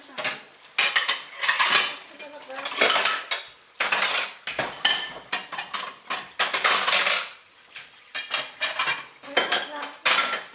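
Plates and cutlery clattering as they are handled, in repeated bursts of clinking and scraping with short pauses between.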